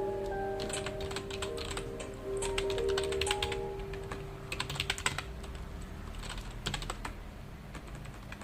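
Computer keyboard typing in irregular bursts of keystrokes, with short pauses between runs, over soft background music with long held notes.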